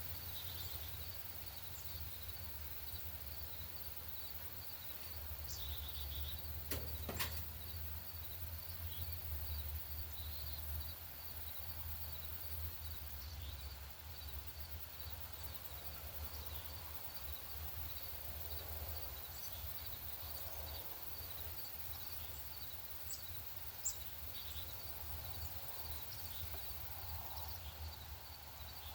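Outdoor feeder ambience: a steady low rumble with scattered short, high songbird chip notes and a faint, even high ticking throughout. A sharp click sounds about seven seconds in, and a brief tap near the end.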